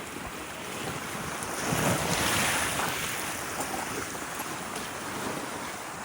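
Wind blowing over the microphone and water rushing along the hull of a sailboat under way, swelling to a louder wash about two seconds in.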